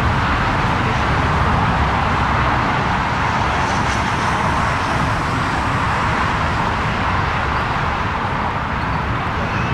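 Steady roar of jet airliner engines, easing off slightly over the last few seconds.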